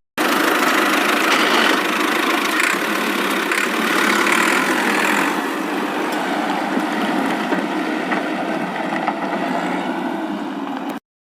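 Vehicle engine sound running steadily with little deep bass, starting suddenly and cutting off abruptly near the end.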